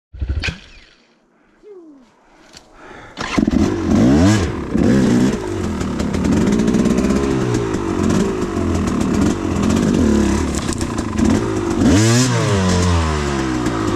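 Enduro motorcycle engine catching about three seconds in, then running and revving up and down repeatedly, with a sharp rev near the end.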